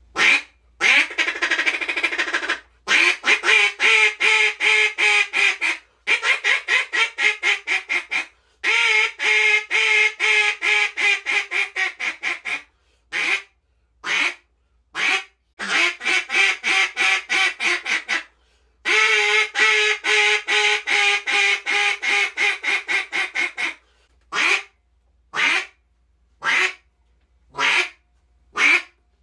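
737 Calls Chief single-reed duck call blown as a hen-mallard imitation: long runs of rapid quacks in strings of descending greeting and feeding calls, broken by short pauses, then a few single spaced quacks near the end.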